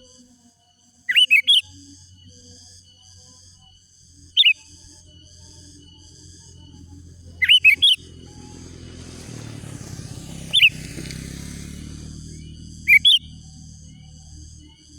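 Sooty-headed bulbul calling in short, loud bubbly phrases of a few notes each, about every three seconds. Behind it runs a fainter, steady high-pitched pulsing chatter and a low hum.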